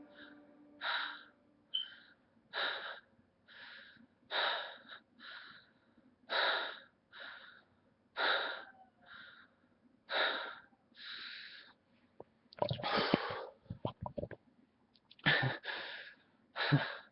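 A man breathing hard and fast, short gasping breaths about once a second, out of breath from singing. Near the end a few louder, sharper breaths come in.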